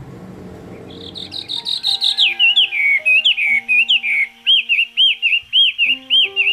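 A songbird calling, starting about a second in with a descending run of whistled notes, then a rapid, loud series of repeated arched chirps, about three a second. Faint sustained music tones run underneath.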